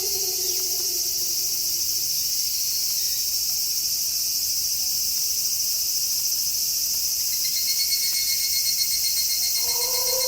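A steady night chorus of crickets, with a wolf howl sliding down in pitch and dying away about two seconds in. A faster, pulsing insect trill joins about seven seconds in, and another wolf howl begins near the end.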